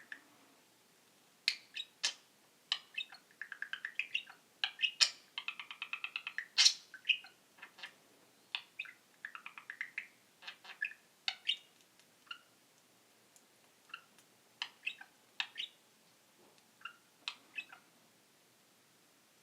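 Budgerigar chirping and warbling in short bursts, mixed with clicks and a brief buzzy rattle about six seconds in; the calls thin out to scattered single chirps in the second half.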